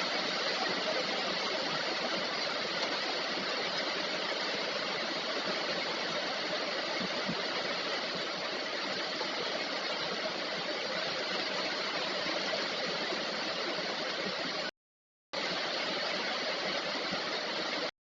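Heavy rain falling steadily, a dense even hiss. The sound cuts out completely for about half a second near the end.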